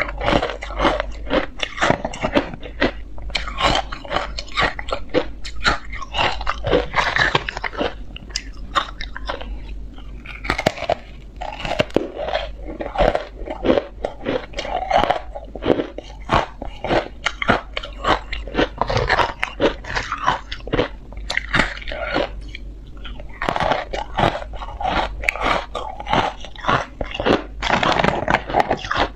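Ice being bitten and chewed: dense, rapid crunching in bouts with short lulls.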